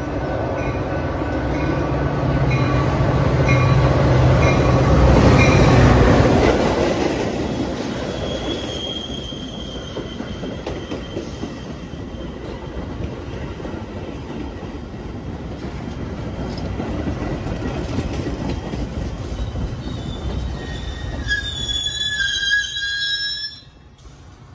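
A train passing at speed: the locomotive's engine drone and rumble grow to their loudest about five seconds in, then fade into the steady rumble of cars rolling by. A bell dings about once every ¾ second at the start, and near the end the wheels squeal on the rails for a couple of seconds before the sound cuts off abruptly.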